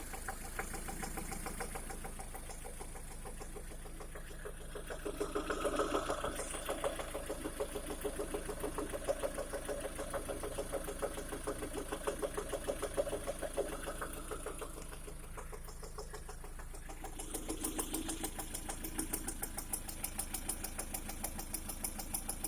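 Lada Priora engine running warm with a steady, rhythmic knock, which is louder for two long stretches. The knock appears once the engine is above about 60 °C after the piston group was replaced, and its source is unclear to the owner.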